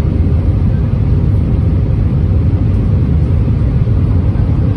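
Steady low rumble of cabin noise inside an Airbus A320-231, from its IAE V2500 engines and the air rushing past the fuselage.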